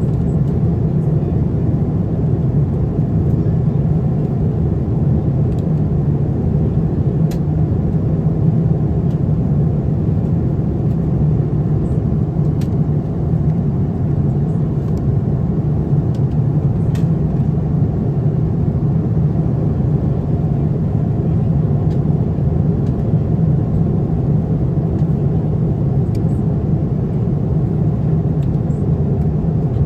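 Steady low rumble of a Boeing 787-9's cabin in cruise: airflow and engine noise heard from an economy seat, with a few faint clicks.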